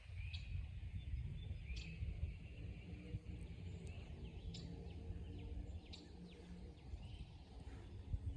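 Small songbirds chirping and calling in short repeated notes over a steady low rumble, with faint steady hum-like tones in the middle stretch.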